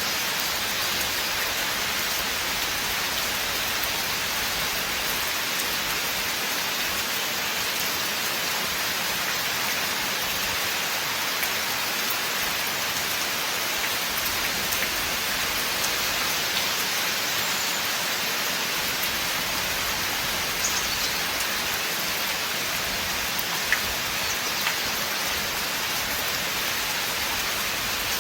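Steady rain falling in a forest, an even hiss with an occasional single drop standing out, the clearest about 23 seconds in.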